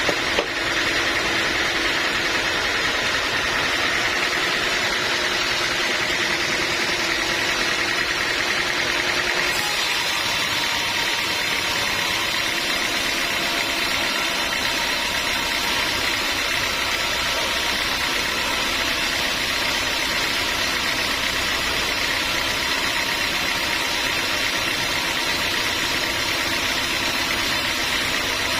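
Sawmill machinery running steadily, an engine or motor-driven noise with no sawing strokes or impacts. Its tone shifts abruptly about a third of the way in.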